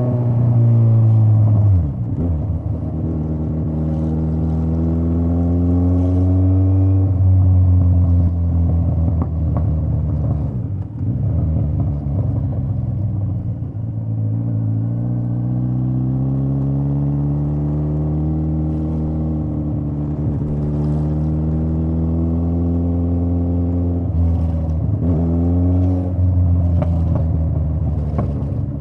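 Straight-piped Kawasaki Z900 inline-four motorcycle exhaust under way. The engine note climbs in pitch as it accelerates, drops back off the throttle around ten seconds in, then climbs in a long pull, with a short blip of the throttle a few seconds before the end.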